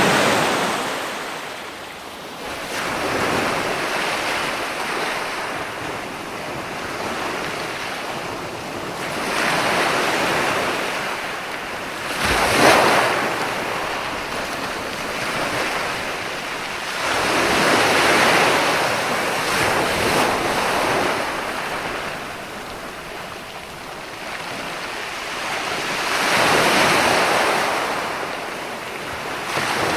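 Ocean surf: waves breaking and washing in, the hiss swelling and fading in slow surges several seconds apart, with one sharper crash about twelve seconds in.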